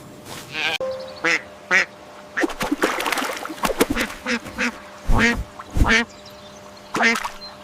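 Ducks quacking: a run of short, raspy quacks, several in quick succession.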